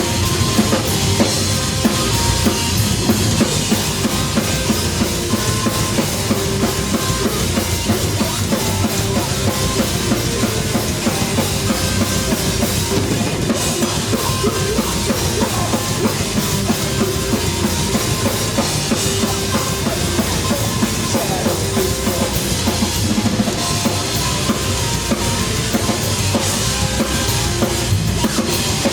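Live rock band playing loud, with a busy drum kit driving the song, kick and snare hits coming fast, alongside bass and keyboard lines.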